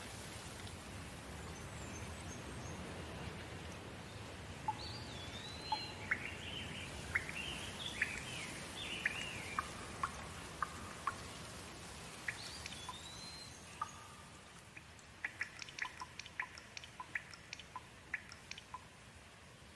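Steady rain hiss with birds calling over it: rising and falling whistled calls through the middle, then a quick run of short, sharp chirps near the end. The rain eases a little in the last few seconds.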